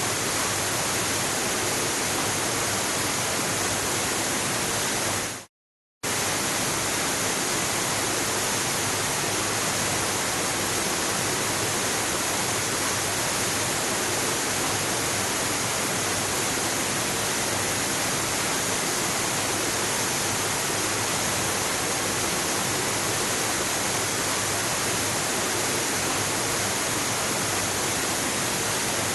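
Steady, unbroken rush of a waterfall, cutting out completely for about half a second around five and a half seconds in before resuming unchanged.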